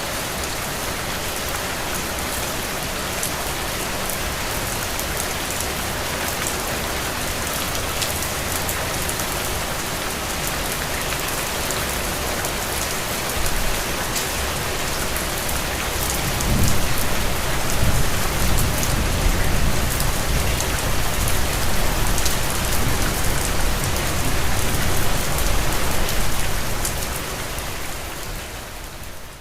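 Steady rain hissing. About halfway through, a low rumble swells underneath it and stays for around ten seconds. The sound dips near the end.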